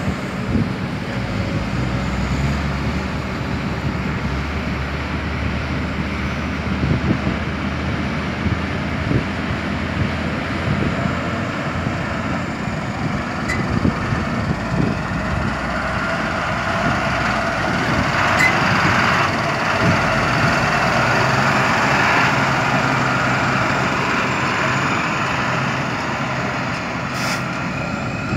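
Diesel engine and hydraulics of a Kobelco SK200 excavator working steadily while it digs and loads soil, with scattered clunks, and the engine and hydraulic sound growing louder and harsher for several seconds about two-thirds of the way through.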